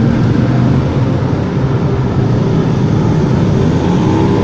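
Motorcycle engine running steadily at speed, a low, even drone with no change in pitch.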